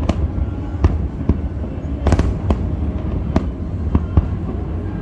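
Aerial fireworks bursting in an uneven string of sharp booms, sometimes two in quick succession, over a continuous low rumble.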